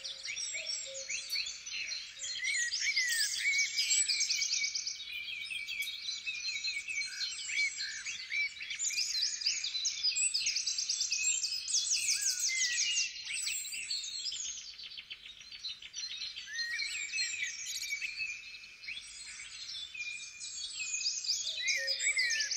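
Several songbirds singing at once in woodland, a dense mix of chirps, quick whistled sweeps and fast trills.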